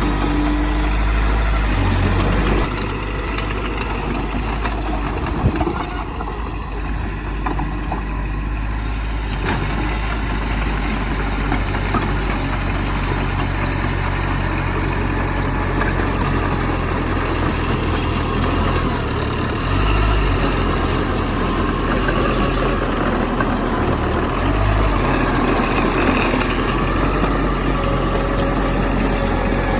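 Heavy diesel engine of earthmoving machinery running steadily. It drops in level about two and a half seconds in and surges briefly twice in the second half.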